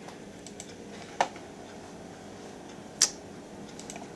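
Two sharp computer mouse clicks about two seconds apart, with a few fainter ticks, over a steady low hum of room tone.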